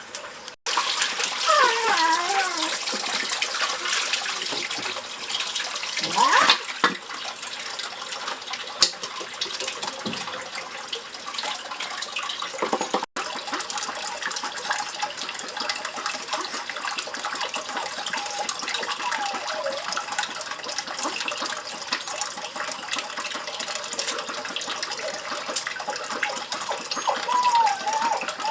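Steady rush of running water, with a few short sliding calls rising above it now and then.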